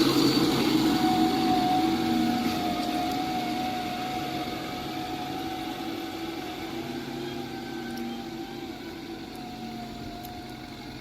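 Heavy diesel vehicle engine running with a steady whine, gradually fading away.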